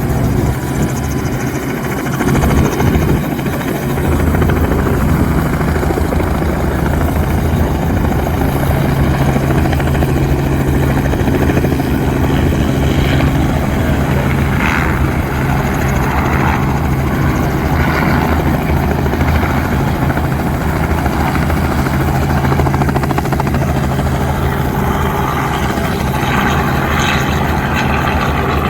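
A steady engine drone with a constant pitch.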